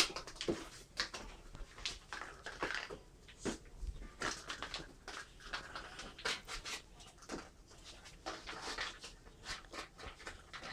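Husky puppy panting and scampering while playing, with scattered light clicks and knocks of small plastic balls.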